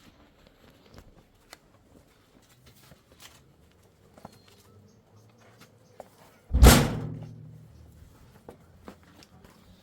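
A single heavy thump about six and a half seconds in, with a short low ring dying away after it, among faint scattered clicks and knocks of handling.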